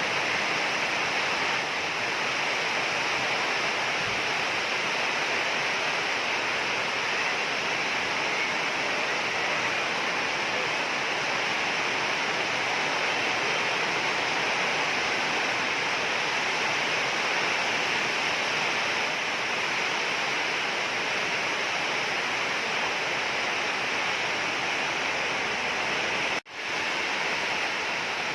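Heavy rain pouring down steadily, a dense even hiss, briefly cut off for a split second near the end.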